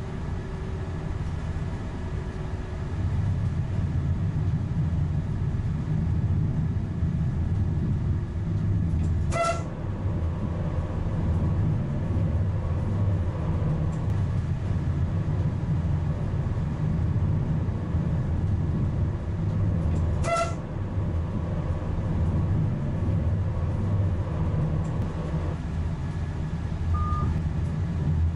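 Alvia Renfe 120 electric multiple unit running at speed: a steady low rumble of the train on the line, with two short beeps about eleven seconds apart.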